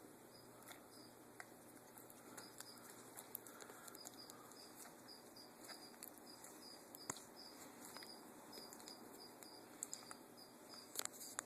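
Near silence with faint scattered clicks from a pet eating a banana, and a faint high ticking about two to three times a second.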